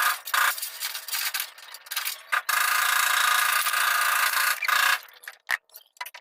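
Sanding on the truck's body: a steady abrasive rubbing that breaks off several times and almost stops about five seconds in before starting again.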